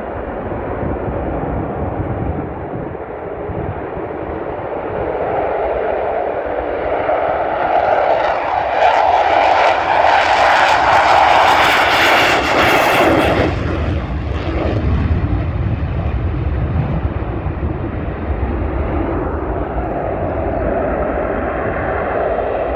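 Saab JAS 39 Gripen fighter jet engines on takeoff, a loud steady roar. It builds to a loud hissing peak about halfway through, then the hiss drops away suddenly, leaving a deep rumble.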